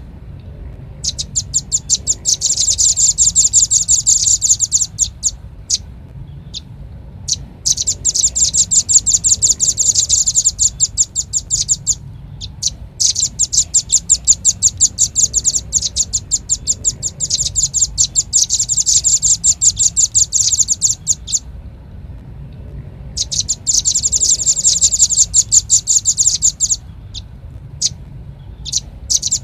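Velvet-fronted nuthatch calls: fast, high-pitched trills of many sharp repeated notes, in bouts of several seconds with short pauses between, over a low steady hum.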